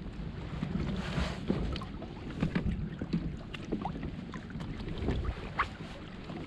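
Water slapping and lapping against a fishing kayak's hull, with small knocks and ticks on the boat and wind buffeting the microphone in a steady low rumble. A brief rush of water or wind about a second in.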